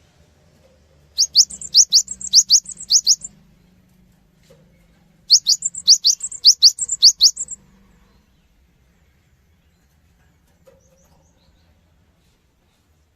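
Cinereous tit (gelatik batu) singing: two bursts of quick, sharp, high notes that each sweep upward, each burst about two seconds long, with a pause of about two seconds between them.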